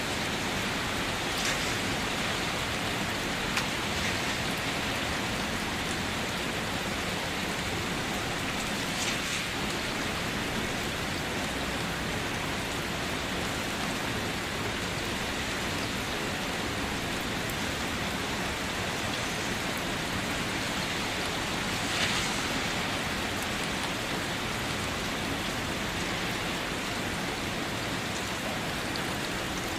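Steady rain falling on leaves and surfaces, an even hiss with occasional louder drops or splashes, the loudest a little after twenty seconds in.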